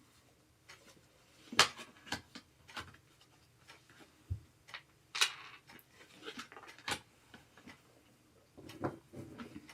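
Scattered clicks and knocks of gaming-chair parts and fittings being handled during assembly, with a short rustle about five seconds in.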